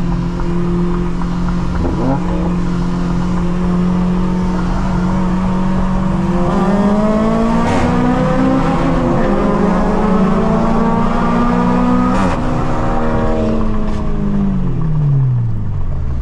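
Car engine held at steady high revs, its pitch stepping up a little midway, then dropping away as the throttle comes off near the end.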